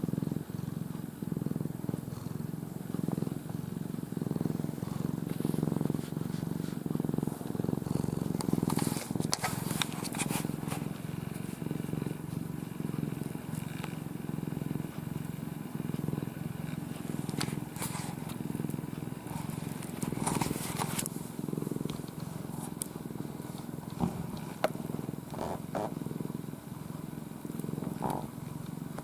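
Domestic cat purring at full strength, a low, steady, pulsing rumble close to the microphone, with a few brief rustling scrapes.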